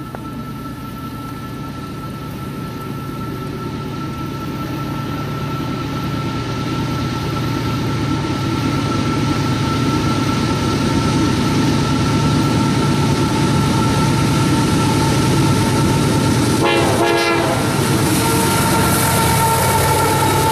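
CSX freight train led by two GE diesel locomotives, an AC4400CW and an ES44AH, approaching and drawing up to pass, its engine rumble growing steadily louder. A steady high tone runs underneath, and a brief rapid clatter comes about seventeen seconds in.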